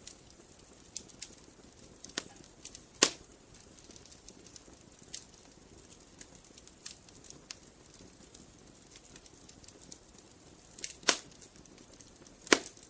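Wood fire crackling: irregular sharp pops and snaps over a faint hiss, with loud pops about three seconds in and twice near the end.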